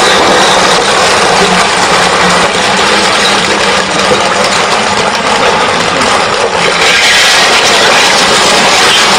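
Road roller's engine running as it rolls over rows of glass liquor bottles, with a dense, steady noise.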